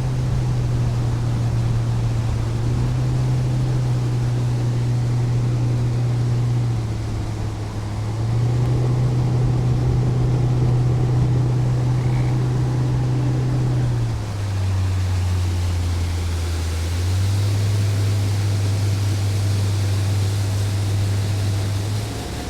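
Boat motor running under way, with rushing water and wind over it. The engine note eases off about seven seconds in and picks back up. It drops lower about halfway through, rises again a few seconds later, and drops once more at the very end.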